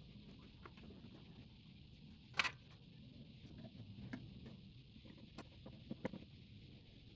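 Scattered light clicks and knocks of parts being handled while a microwave oven is taken apart for scrap, with one louder sharp click about two and a half seconds in.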